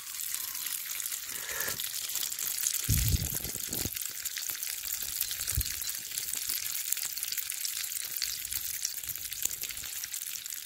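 Sliced chorizo frying in its own oil in a Trangia frying pan, sizzling steadily with a fine crackle. A few low thumps come about three seconds in and again a couple of seconds later.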